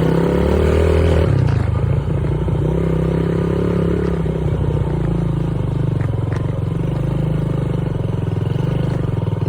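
Dirt bike engine running while riding: the revs climb over the first second, drop about a second and a half in, then hold fairly steady.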